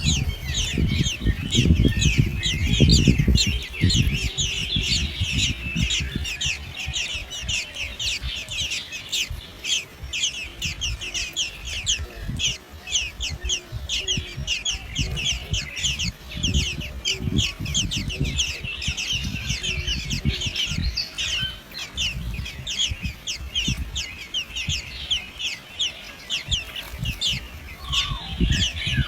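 A chorus of baby birds cheeping rapidly and without pause, many short high chirps a second, as young birds do when begging for food. Low thumps and rumble sit underneath, loudest in the first few seconds.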